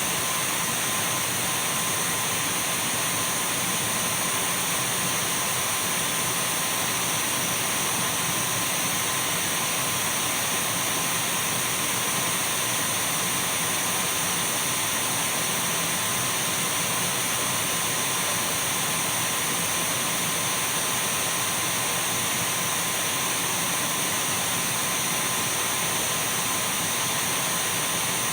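Dyson V12 cordless stick vacuum running steadily: an even rushing hiss with a thin, constant high whine, holding the same level throughout.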